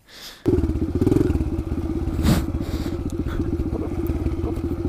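Kawasaki KLX110 pit bike's small single-cylinder four-stroke engine running steadily, coming in abruptly about half a second in. A single knock about two seconds in.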